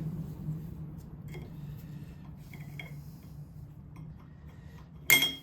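Small metal parts and tools clinking against metal, a few light ringing taps, then one loud ringing metal clank near the end.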